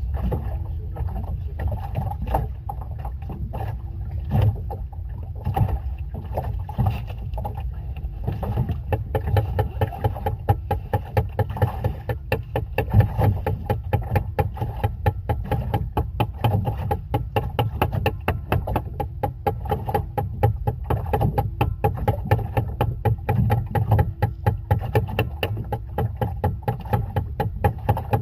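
A boat's motor running steadily at sea, a low rumble with a faint pitched hum. From about eight seconds in, rapid repeated knocks or slaps are heard, typical of the hull hitting waves under way.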